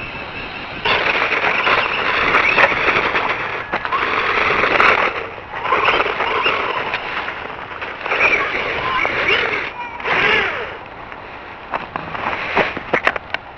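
Brushed electric RC monster truck (XL 9115 / GPToys S911, 1/12 scale, 2WD) driven in throttle bursts: its motor and gearing whine, wavering in pitch, over the rush of its tyres rolling, in four runs of one to four seconds. It eases off after about ten seconds, and a few sharp clicks and knocks follow near the end.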